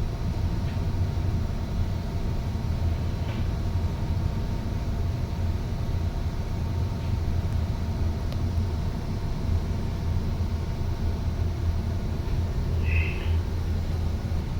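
Steady low rumble of a ship's engine and machinery, with a faint steady hum above it and a brief high chirp near the end.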